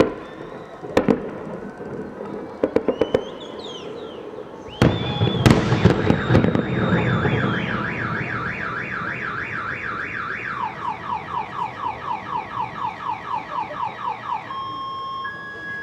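Fireworks going off: sharp bangs and a crackling burst, then a car alarm starts wailing, its tone sweeping up and down about three times a second before switching to faster rising chirps and stopping shortly before the end.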